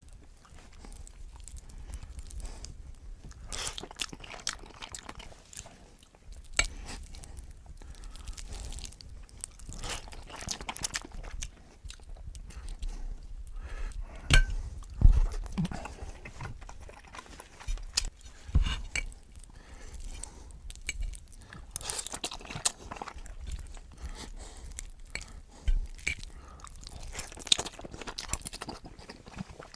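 A person chewing and biting through a meal of black-bean and spicy carbonara noodles with fried eggs and sausage, with irregular crunches and wet mouth clicks, some louder than others.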